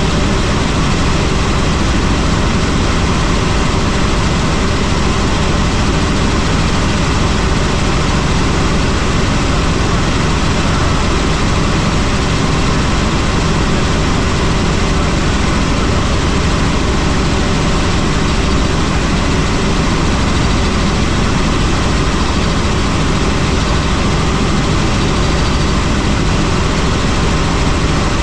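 Helicopter in flight: steady engine and rotor noise, loud and unchanging.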